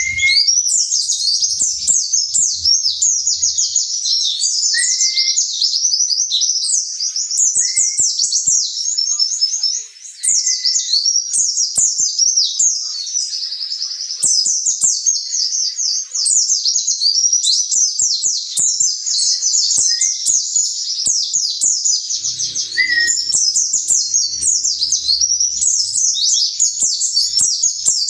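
White-eye (pleci) singing a long, rapid, high-pitched twittering song almost without pause, with a short lower chirp every few seconds and a brief break about ten seconds in.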